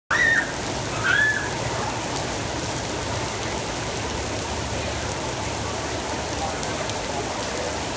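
Heavy rain pouring onto pavement and grass, a steady, even hiss. Near the start a child gives two short, high-pitched squeals about a second apart.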